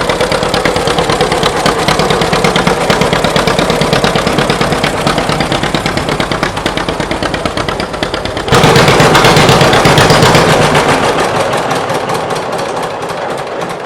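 1940 John Deere Model B's two-cylinder engine running after a flywheel hand start, with a rhythmic exhaust beat. It gets suddenly louder about eight and a half seconds in, then fades toward the end.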